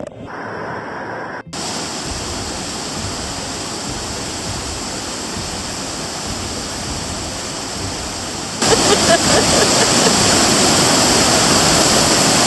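Steady rush of a rainforest waterfall and rapids, starting about a second and a half in and getting abruptly louder about eight and a half seconds in.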